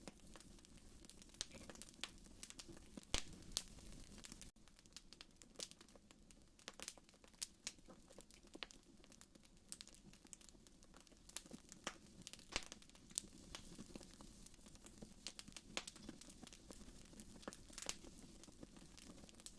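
Wood fire in a fireplace crackling: irregular sharp pops and snaps over a low, steady rush of the flames.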